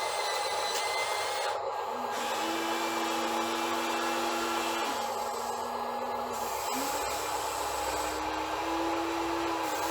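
Small electric motors whirring steadily. A low hum comes in about two seconds in and shifts pitch in steps several times, as if motors are starting, stopping or taking load.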